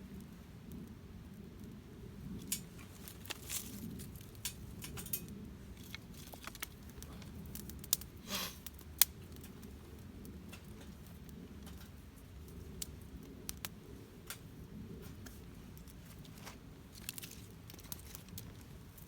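Campfire crackling, with irregular sharp pops and snaps, the loudest about nine seconds in, over a steady low rumble.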